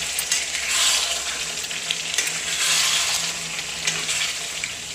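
Thick chicken kosha gravy sizzling in a kadhai while a ladle stirs it round. The hiss swells and fades with each stroke, with a few light taps of the ladle against the pan.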